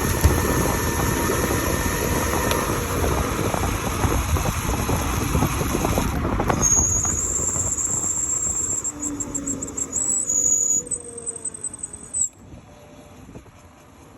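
Modified Razor RSF650 mini moto being ridden: wind and road rumble over the motor. From about halfway a high steady whine sets in, shifting pitch in small steps, and the noise drops away sharply near the end as the bike slows.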